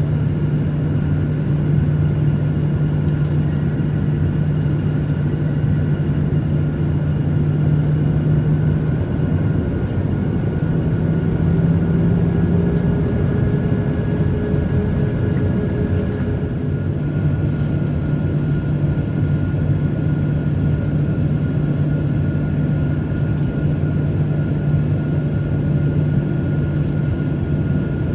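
Boeing 737-800 cabin noise: a steady drone of the CFM56 jet engines and cabin air, with a low hum and fainter higher whines. Midway the low hum shifts in pitch and drops out for several seconds before returning.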